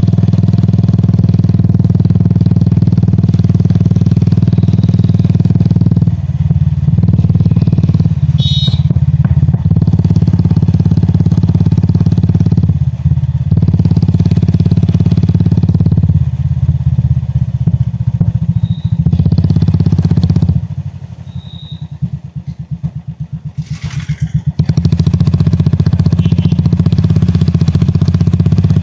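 Royal Enfield Classic 350's single-cylinder engine running at riding speed, with several brief dips as the throttle is eased. About twenty seconds in it falls for a few seconds to slow, separate thumps, then picks up again. A few short high beeps sound over it.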